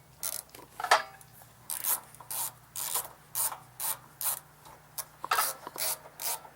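A ratchet wrench clicking in repeated strokes, about two a second, as it backs off a 10 mm carburetor mounting nut on a snow blower engine.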